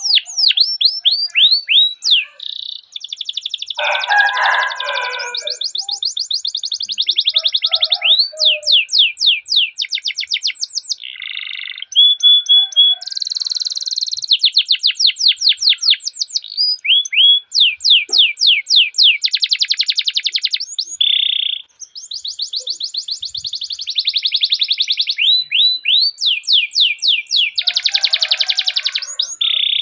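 Domestic canary singing a long, unbroken rolling song: fast runs of repeated downward-sweeping notes and buzzy trills, switching to a new phrase every second or two.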